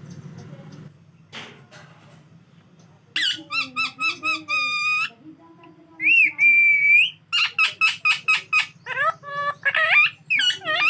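Pet parrot calling, starting about three seconds in: a run of high-pitched squawks and chirps, a longer wavering whistle-like note about halfway through, then a quick string of short calls.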